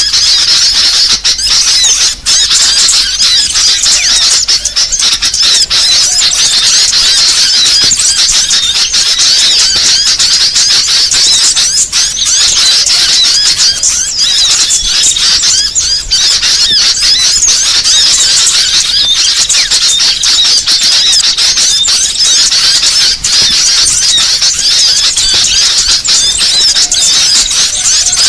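Bird-luring recording of many small songbirds calling at once: a dense, unbroken, high-pitched chatter of chirps and twitters.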